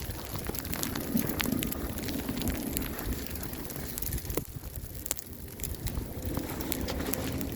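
Wind rumbling on the microphone, with many faint crackles scattered through it.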